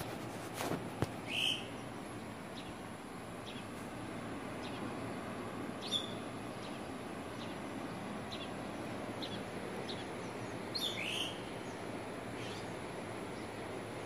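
Birds chirping: scattered short, high chirps, three of them louder with a quick downward slide (near the start, about six seconds in, and about eleven seconds in), over a steady rush of background noise.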